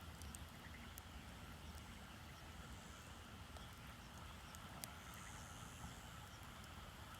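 Small wood fire burning in a shichirin charcoal grill, faintly crackling with scattered soft pops and one sharper pop about five seconds in.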